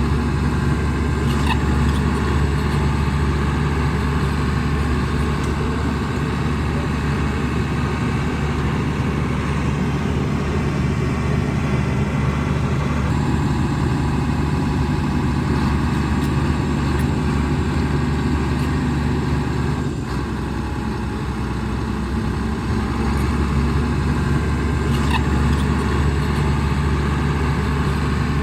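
Shantui DH17C2 bulldozer's diesel engine running steadily under load, easing off briefly about two-thirds of the way through, with a few sharp knocks.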